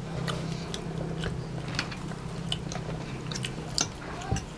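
A child chewing and biting a burger close to the microphone, with many short wet clicking mouth noises.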